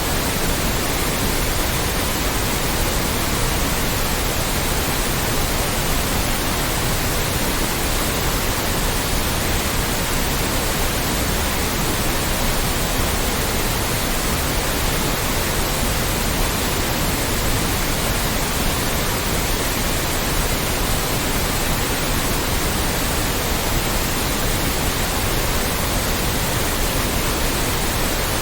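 Steady, loud white noise: an even hiss across the whole range, unchanging throughout.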